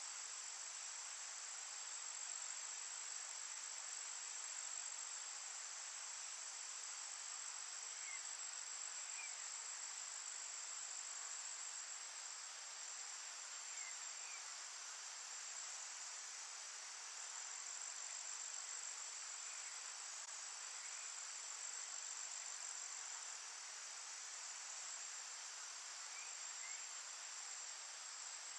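Steady high-pitched chorus of insects trilling without pause, over a soft hiss, with a few faint short chirps every several seconds.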